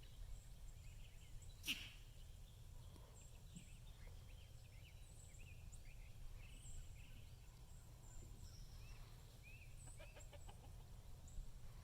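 Faint, scattered short high chirps from birds over a low steady hum, with one brief click about two seconds in.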